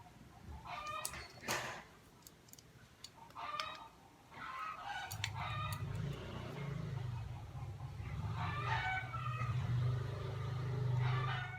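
Chickens clucking and a rooster crowing in the background, in several short calls. There is a sharp click about a second and a half in, and a low steady hum that starts about five seconds in.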